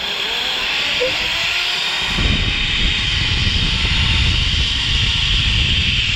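Zipline trolley pulleys running along the steel cable, a steady loud hiss. About two seconds in, wind starts rumbling on the microphone as the ride picks up speed.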